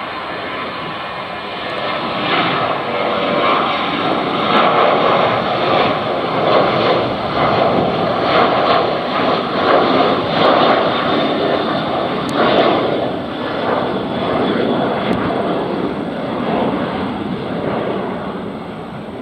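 Boeing 737-800's CFM56-7B turbofan engines at takeoff thrust, going by: a loud, rushing jet noise that builds over the first few seconds, is loudest around the middle, and fades slowly toward the end.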